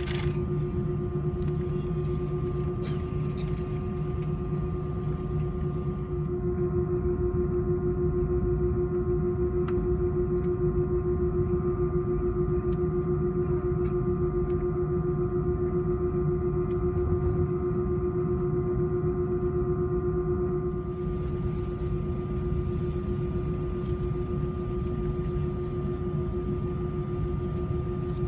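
Steady drone of a jet airliner's engines heard inside the cabin: a low rumble with a constant hum of several steady tones. It grows a little louder about six seconds in and eases back down near the end.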